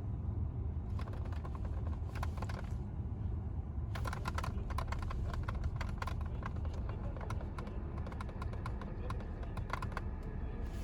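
Irregular clicking of buttons being pressed on a Lexus IS climate-control panel during an air-conditioning check, sparse at first and then rapid from about four seconds in, over a steady low hum.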